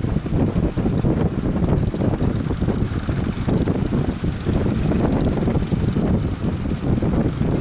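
Strong wind buffeting the microphone, a loud gusting rumble.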